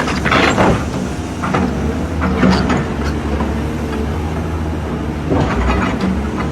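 Excavator engine running steadily, with several sharp knocks through it as the machine works.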